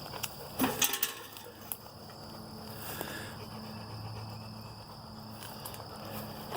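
A few crunching steps through dry debris about a second in, then softer scattered ticks, over a steady low hum and a steady high-pitched whine.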